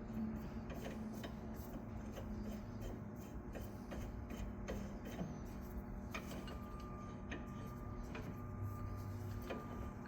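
Irregular light clicks and ticks over a steady hum, with a thin high tone joining about six seconds in.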